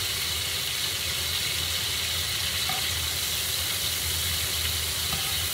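Seared Cornish hen pieces sizzling steadily in hot oil in a frying pan.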